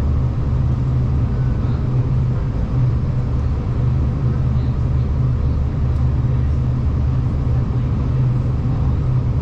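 Steady low rumble of a V/Line diesel train, even throughout with no clear rail-joint clicks.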